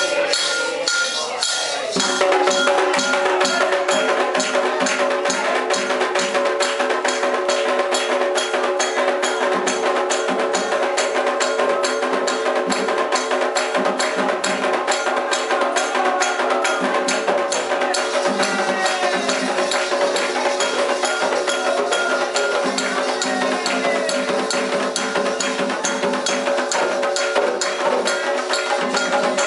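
Candomblé ritual music: percussion keeps a fast, even beat that gets louder about two seconds in, over held sung tones.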